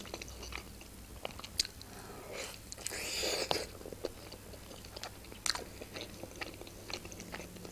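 Close-up chewing of a bitten khinkali (Georgian meat dumpling), soft and wet, with scattered small mouth clicks. A longer, louder stretch of mouth noise comes about two and a half to three and a half seconds in.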